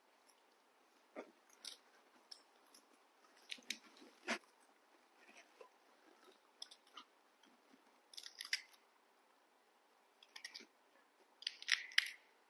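People biting and chewing crisp June apple (ambarella) fruit: faint, irregular crunches, with a few louder bites scattered through.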